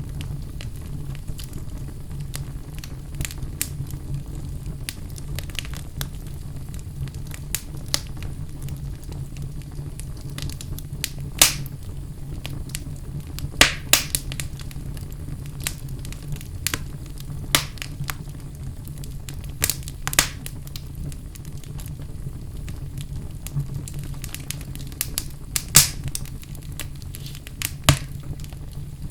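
Wood fire burning in a fireplace: a steady low rumble of the flames with scattered crackles and several sharp, loud pops from the burning logs.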